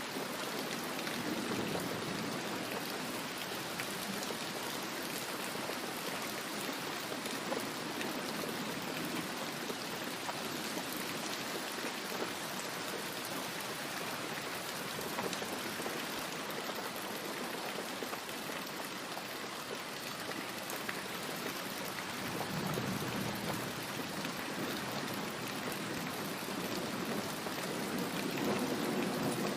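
Steady heavy rain falling and splashing on surfaces. Low rumbles of distant thunder swell near the start and again over the last several seconds.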